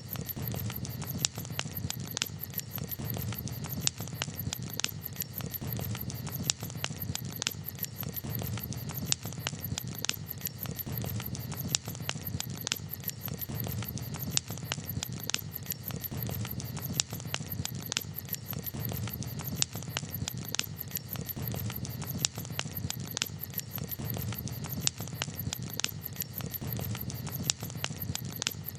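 Campfire crackling, with frequent sharp, irregular pops and snaps over a steady low rumble of the burning fire.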